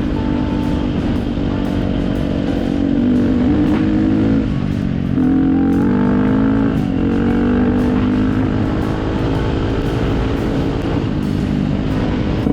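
Dirt bike engine running while riding, its pitch stepping up and down several times with throttle and gear changes, with many small knocks and clatter over it.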